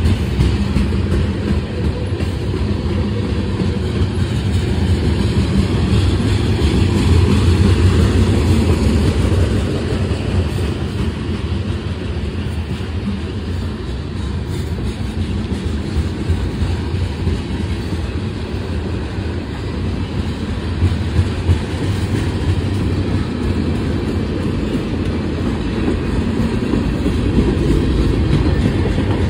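CSX mixed freight train rolling past: a continuous rumble of wheels on rail that swells and eases.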